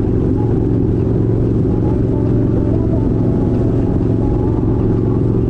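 Kawasaki Vulcan 1700 Vaquero's 1700cc V-twin engine running steadily, a loud, even low rumble with no revving.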